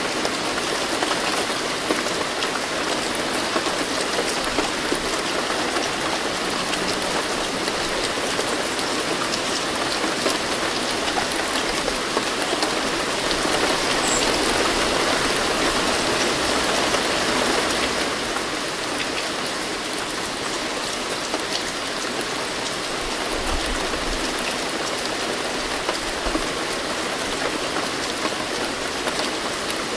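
Steady rain falling, with countless small drop ticks. It grows a little heavier about halfway through, then eases slightly.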